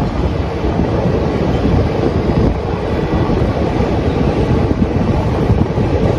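Passenger express train running, heard from the coach doorway: a steady rumble of wheels on the rails, with wind buffeting the microphone.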